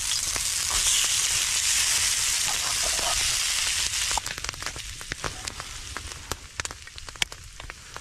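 Frozen corned beef hash frying loudly on a hot skillet over a campfire, a dense sizzle. About four seconds in the sizzle drops off abruptly, leaving scattered pops and crackles.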